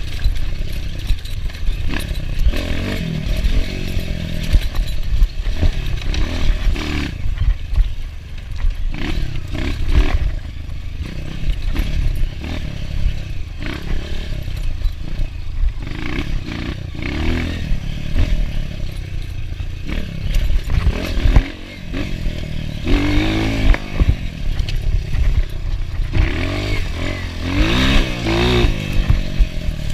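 Enduro dirt bike engine ridden hard, the revs rising and falling continually, with the pitch climbing sharply about twenty-three seconds in and again near the end. Knocks and rattles run under it throughout.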